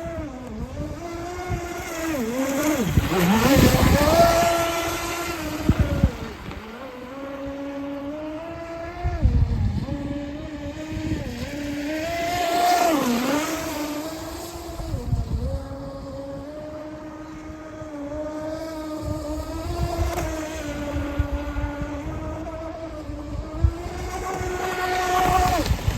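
UDI022 electric RC speedboat running at speed on a 4S battery, its motor whining and dipping then rising in pitch as the throttle is eased and opened. The whine swells louder three times as the boat passes close, over a rush of water and spray.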